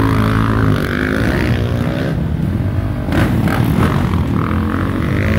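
Off-road race motorcycle engines running hard, their pitch rising and falling as the bikes rev and go by.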